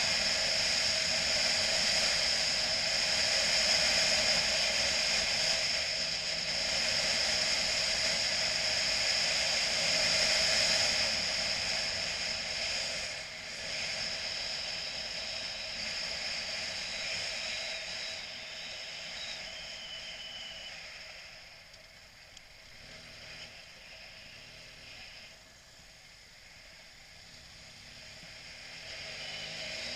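BMW motorcycle on the move, with wind and engine rushing steadily over the microphone. It quietens about two-thirds of the way through, and a rising engine note comes in near the end as the bike speeds up again.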